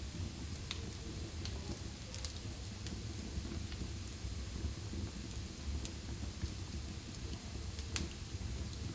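Wood fire burning in a fireplace: a steady low rumble of flames with sharp crackles and pops scattered through it, the loudest pop near the end.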